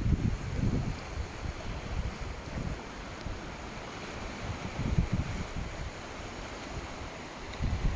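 Sea surf washing steadily, with wind buffeting the microphone in gusts near the start and again about five seconds in.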